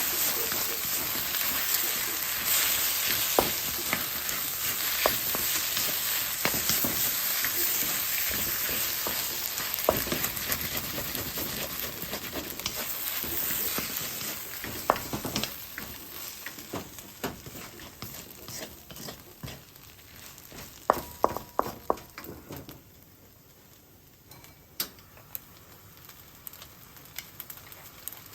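Fried rice sizzling in a hot pan while a spatula stirs and scrapes it, with frequent clicks and taps of the utensil on the pan. The sizzle fades through the second half and has nearly died away about 23 seconds in, leaving only occasional clinks and taps.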